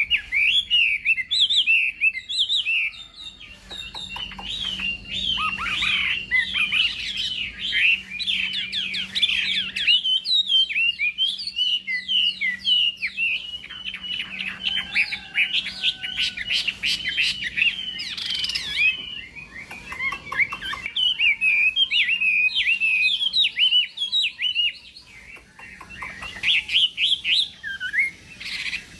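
Chinese hwamei singing a long, rapid song of varied whistled notes and trills, with short pauses a few times.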